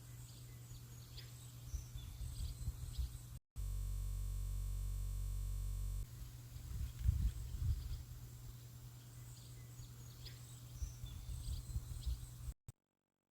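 Birds chirping faintly in short high calls over a low, steady outdoor rumble. It is broken by about two and a half seconds of a steady, even buzz, and the sound cuts off to silence near the end.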